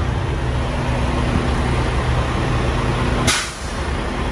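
Steady low hum of an idling semi-truck diesel engine, with one short, sharp hiss or click about three seconds in, after which the hum briefly falls away.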